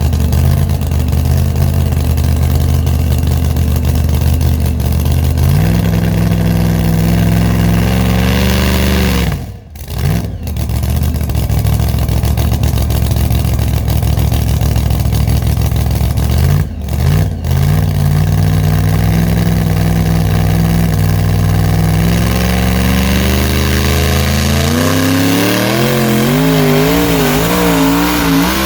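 Pulling vehicle's engine running loud at high, steady revs, briefly dropping out twice; near the end the pitch climbs and wavers up and down.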